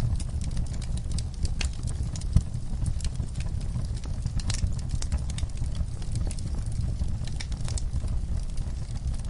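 Wood fire in a camp fire pit burning, logs and coals crackling and popping irregularly over a steady low rumble, with one sharper pop about two and a half seconds in.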